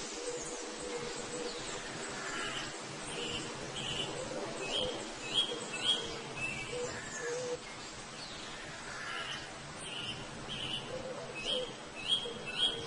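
Bird calling: a series of short, high chirps repeated in two runs, the first about two seconds in and the second from about nine seconds in, over a faint steady background.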